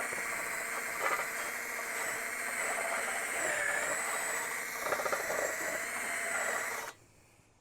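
Electric drill spinning a paint-and-rust stripping wheel against a rusty steel tractor rim: a steady motor whine over an abrasive hiss, dipping a little in pitch midway as it bears down, then cutting off near the end.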